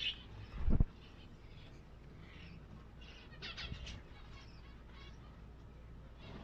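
Birds chirping in short high calls, with a cluster about three and a half seconds in. A dull low thump under a second in is the loudest sound.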